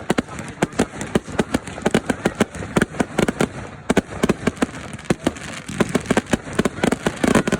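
Fireworks going off in a dense, irregular barrage of sharp bangs and crackles, several a second, overlapping one another.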